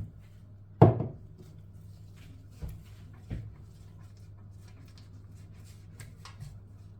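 Kitchen handling knocks: one loud knock about a second in, two lighter knocks a couple of seconds later, and a few faint clicks near the end, over a steady low hum.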